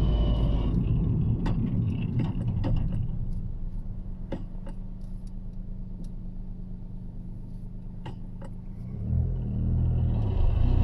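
Toyota GR Yaris's turbocharged 1.6-litre three-cylinder engine, heard from inside the cabin: it runs with a low rumble, settles to a steady idle about three seconds in, with a few sharp clicks, then the revs climb again about nine seconds in.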